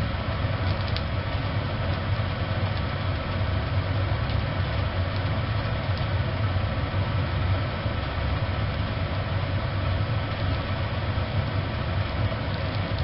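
Wood fire burning steadily in a small wood stove: a continuous low rumble with a few faint crackles.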